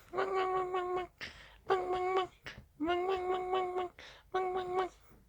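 Dachshund giving four drawn-out, steady-pitched whining howls in a row, each half a second to a second long and wavering as it goes, as the dog begs to be played with.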